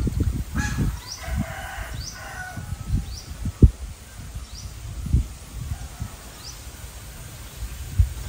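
Birds calling: a louder call during the first couple of seconds, with short rising chirps repeated every second or so throughout. Irregular low thumps on the microphone, the loudest about three and a half seconds in.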